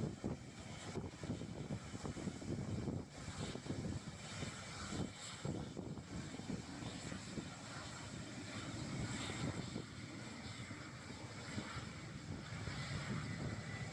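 Airbus A330-200's jet engines heard from the ground: a continuous rumble that rises and falls in level.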